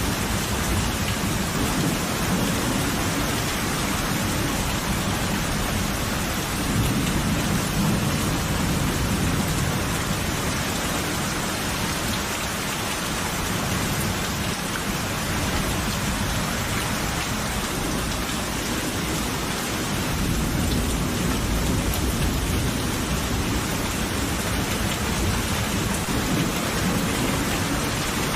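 Steady heavy rain, with low rolls of thunder rumbling beneath it: one swelling about a quarter of the way in and another building after the middle.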